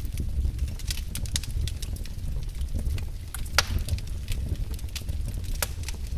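Wood fire burning in a fireplace: irregular crackles and pops over a steady low rumble of the flames, with one louder pop about halfway through.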